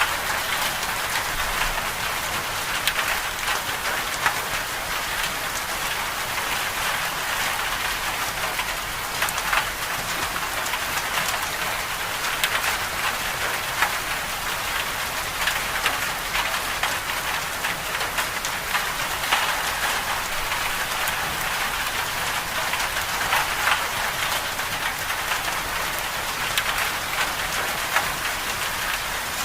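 Winter storm ambience: a steady, even hiss of precipitation pattering densely on a surface, dotted with small, sharper taps.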